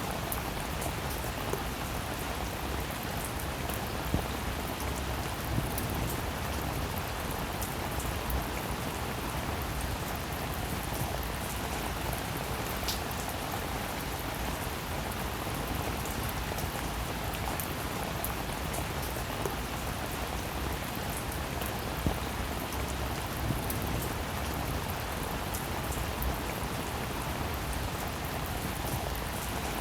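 Steady rainfall, with scattered individual drops landing louder every few seconds.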